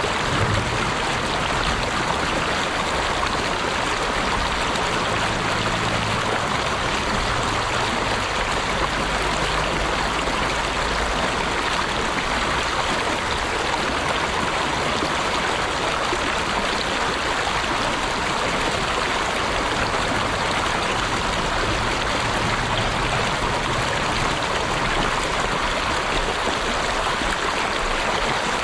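Flowing stream water rushing and babbling in a steady, unbroken stream.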